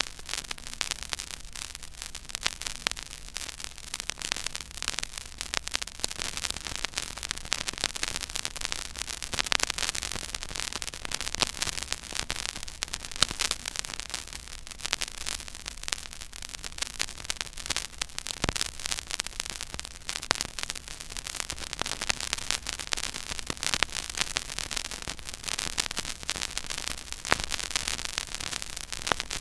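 Silent groove of a 12-inch vinyl record played at 33⅓ rpm: steady surface hiss with constant crackle and many small pops, and a faint low hum underneath. One louder pop about two-thirds of the way through.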